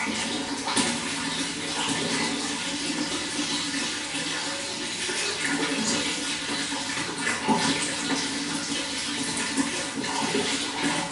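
Running water flowing and splashing steadily, with small irregular splashes throughout.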